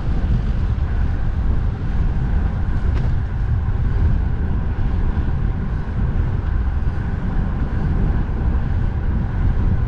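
Strong wind buffeting the microphone, a steady low rumble with a fainter hiss above it.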